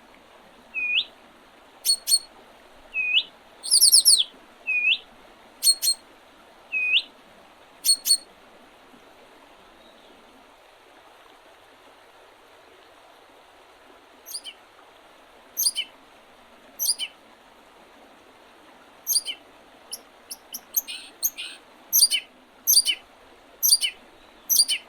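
Small songbirds calling in spring, in short separate chirps. Rising hooked notes alternate with sharp high ones about once a second, then stop for several seconds. A quicker run of short dropping notes follows, all over a steady faint hiss.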